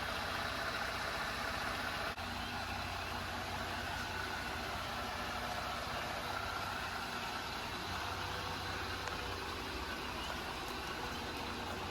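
2020 Jeep Gladiator's engine idling steadily.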